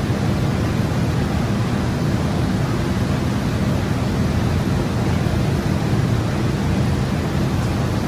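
Steady, loud rushing noise with a deep rumble underneath, unchanging and without knocks or clicks.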